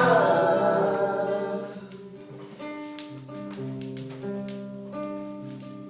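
Singing voices hold the last note of a worship song phrase, fading out in the first two seconds, then an acoustic guitar strums chords alone between the sung lines.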